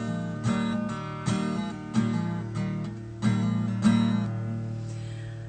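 Acoustic guitar playing an instrumental passage of strummed chords, about five strums in the first four seconds; the last chord rings out and fades.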